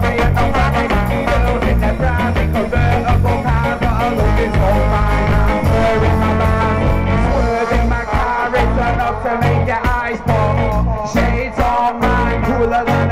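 Live band playing an upbeat ska-style song with a steady offbeat rhythm, bass and guitars, and a few sung lines.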